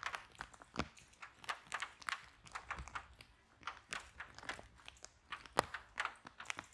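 Wood fire in a fireplace crackling, with irregular snaps and pops several times a second and one sharper pop a little past halfway.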